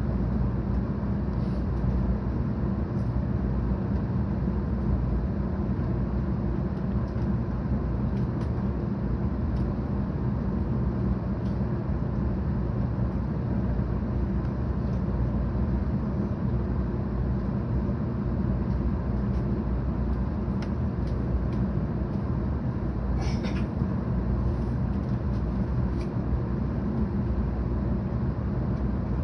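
Steady rumble and running noise of a 700 Series Shinkansen train, heard inside the passenger cabin, with a few faint ticks over it.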